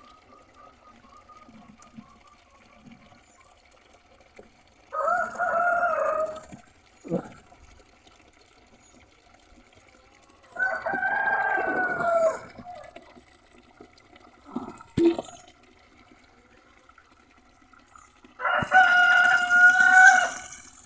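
Roosters crowing three times, each crow about two seconds long, with long pauses between.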